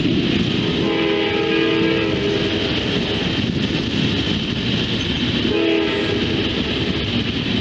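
A passing train's horn sounding two blasts, one of about a second and a half near the start and a shorter one about two-thirds of the way in, over the steady rumble of the train.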